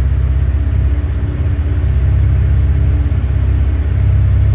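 2015 Chevy Impala with its muffler and resonator deleted, the engine idling steadily with a low exhaust rumble.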